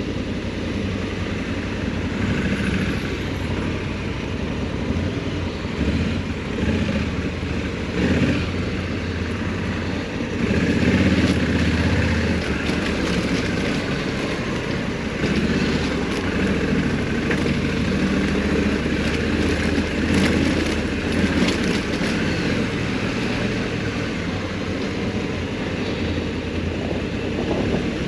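Honda Africa Twin 1100's parallel-twin engine running under way at low road speed, heard onboard. The engine note rises and falls with the throttle and is loudest for a couple of seconds about ten seconds in.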